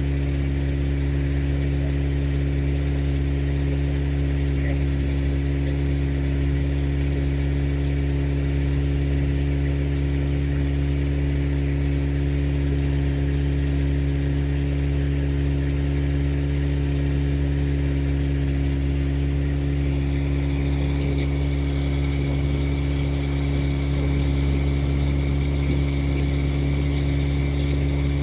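Motorboat engine running steadily at a constant speed, a low, even hum with no change in pitch.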